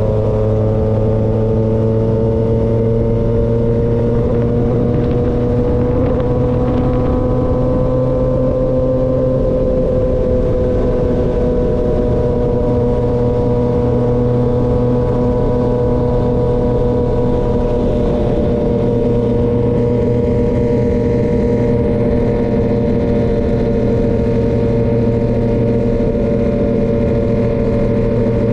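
2023 Yamaha XSR900's inline-three engine through an SC-Project CRT exhaust, running steadily while riding. The pitch climbs slightly a few seconds in, eases back, and then holds at a constant speed.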